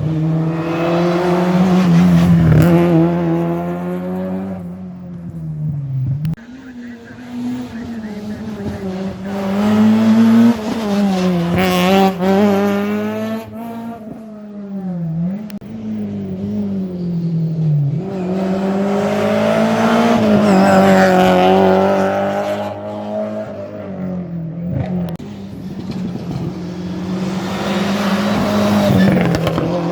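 Rally cars at full attack on a special stage. The engines rev up and down repeatedly as they accelerate, change gear and brake, and the sound swells loudest four times as the cars come close.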